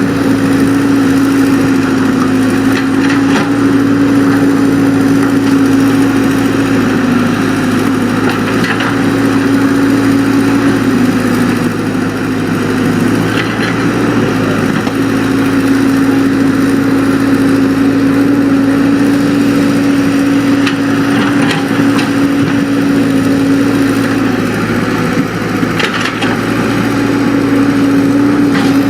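Excavator's diesel engine running steadily under work, its pitch sagging briefly a couple of times, with a few faint knocks.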